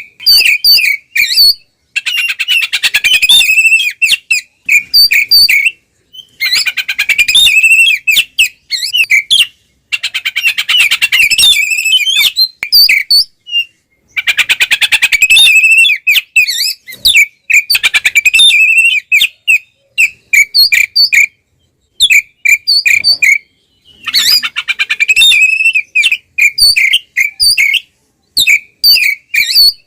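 Oriental magpie-robin singing loudly: dense, rapid phrases of varied whistles and chatter a second or two long, alternating with runs of separate sharp notes and short silences. This is the full, aggressive 'ngeplong' fighting song used as a lure to provoke other magpie-robins.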